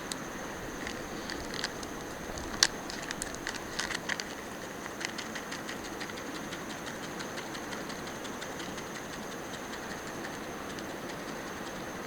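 Outdoor ambience: a steady hiss with a steady high-pitched drone, and scattered sharp ticks and crackles, the loudest a single crack about two and a half seconds in.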